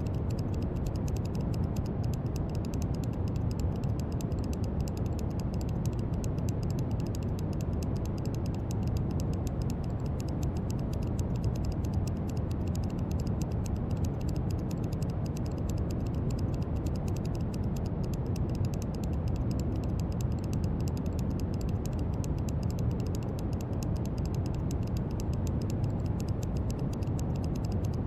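Steady brown noise: a deep, even rushing hiss, weighted to the low end, with no change in level.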